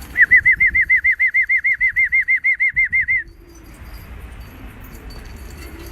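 A loud warbling whistle of about twenty quick, identical scooping notes, roughly seven a second, that stops abruptly after about three seconds. It is a pigeon keeper's whistle for driving a flock of pigeons into flight. A steady background hiss remains.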